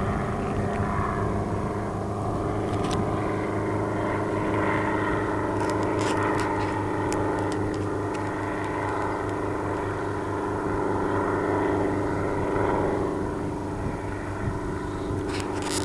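Helicopter running steadily, a continuous engine and rotor drone with a low hum and a few faint clicks.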